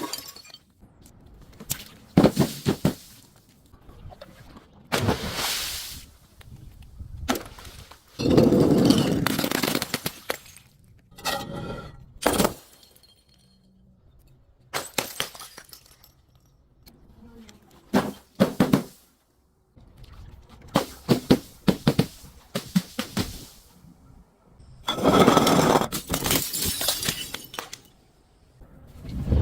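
A string of separate breaking and crunching sounds, glass bottles shattering among them, each lasting up to a couple of seconds with short pauses between.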